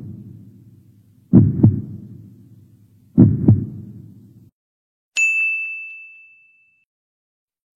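Heartbeat sound effect: double 'lub-dub' thumps repeating about every two seconds, fading out after the second full beat. About five seconds in, a single high, bell-like ding rings out and decays.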